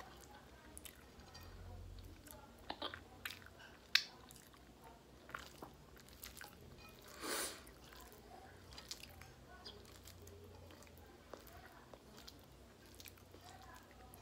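Faint chewing with small wet mouth clicks and smacks, someone eating rice, black beans and chicken by hand. One brief louder noisy rush about seven seconds in.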